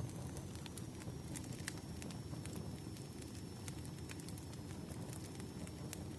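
Firewood burning: a steady low rumble of flames with frequent sharp crackles and pops from the logs.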